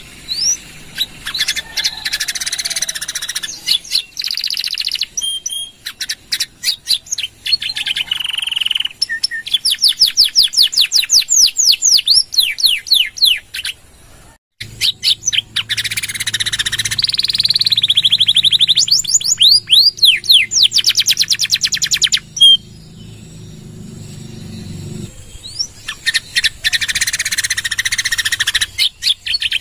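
Domestic canary singing long, loud phrases of fast trills and rapid repeated down-slurred notes, with short pauses between phrases and a brief break about halfway.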